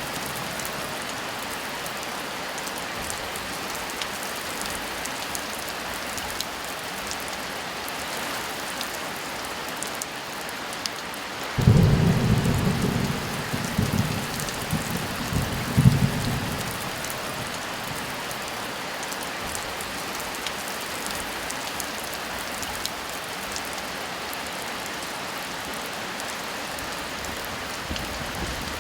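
Steady heavy rain hissing, with a clap of thunder breaking in sharply about a third of the way through and rumbling for several seconds, swelling again before it fades.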